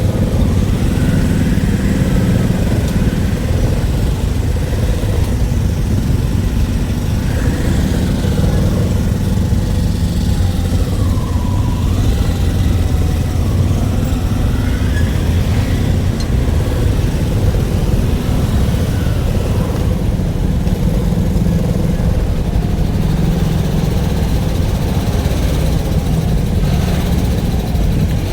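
A motor vehicle's engine running steadily, with a constant low rumble.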